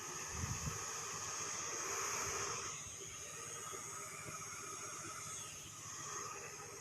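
Mini fan built on a small DC motor running: a steady high-pitched motor whine over the airy hiss of the blades, with a couple of low bumps about half a second in.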